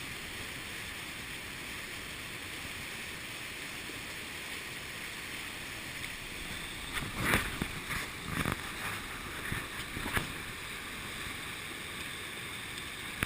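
Steady rush of river water at a waterfall. From about seven seconds in there is a short cluster of knocks and thumps.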